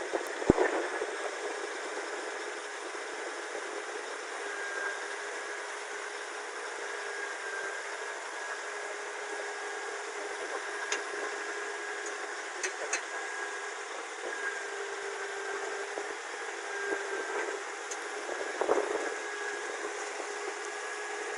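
Caterpillar D8N bulldozer's diesel engine running steadily, with scattered clicks and a sharp knock about half a second in.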